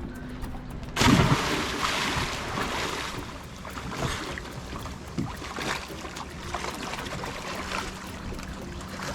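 Rushing water and wind noise on the microphone from a boat under way, starting abruptly about a second in and surging unevenly.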